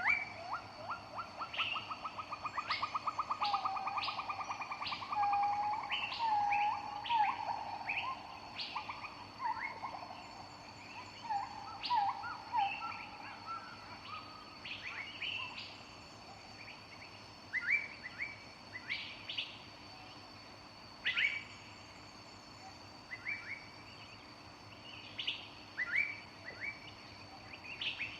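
Several birds singing in a forest: a fast trill in the first few seconds, a few low whistled notes, then scattered short chirps and calls with quieter gaps between them.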